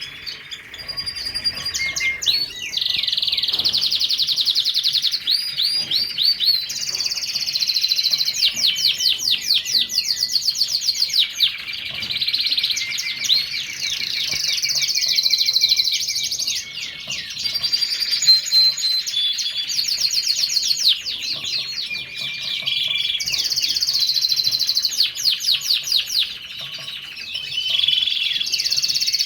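Lancashire canary singing a long, continuous song of fast trills and rapidly repeated notes, broken by a few short pauses.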